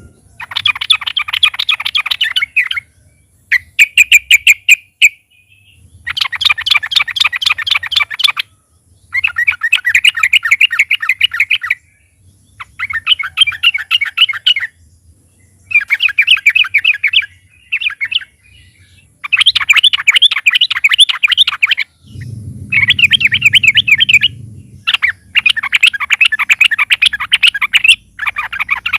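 Yellow-vented bulbul (trucukan) singing loud, rapid bubbling phrases, each a second or two long, repeated about ten times with short pauses between them.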